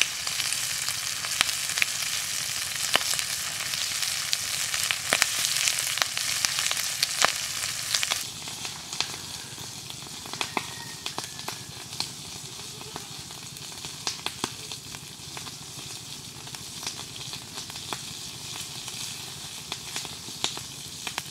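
Chicken feet sizzling in a hot pan over a wood fire, a dense hiss with frequent sharp pops. About eight seconds in, the sizzle drops away to a quieter crackle of the burning wood with scattered pops.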